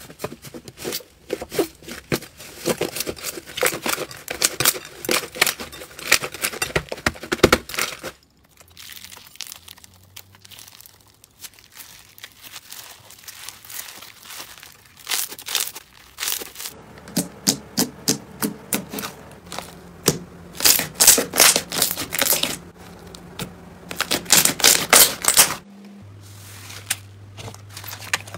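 Hands squeezing and poking slime: clusters of sticky crackling and popping clicks. The sound changes abruptly about eight seconds in and again near the end, as one slime clip gives way to the next.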